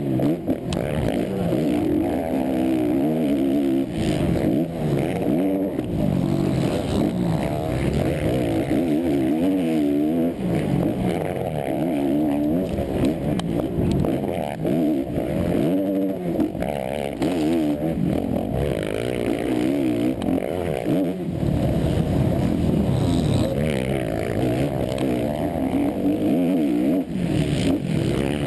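Motocross bike engine heard from on board, revving up and falling back over and over as the rider accelerates, shifts and backs off around the track.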